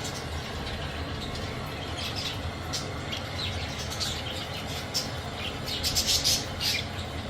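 A flock of budgerigars chirping and chattering in short, scattered calls, with a louder flurry of calls about six seconds in.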